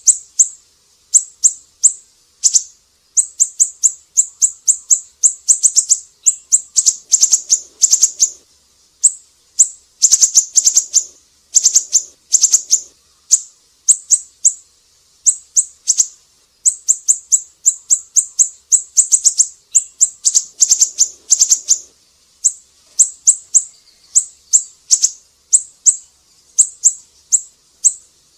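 Siri-siri songbird singing: long runs of quick, sharp, high-pitched chirps, several per second, broken by short pauses.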